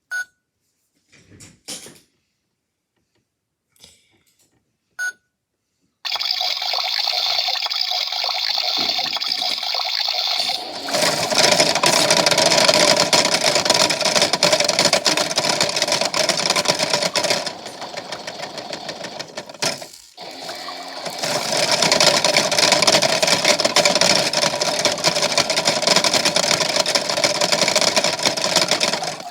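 A few light clicks and knocks, then a toy washing machine starts about six seconds in and runs with a steady motor whir and churning water. It gets louder about five seconds later, drops briefly about two-thirds of the way through, then runs loud again.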